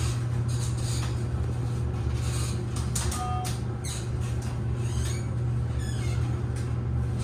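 Steady low hum of a KONE elevator and its surroundings, with background bustle and a short electronic beep about three seconds in.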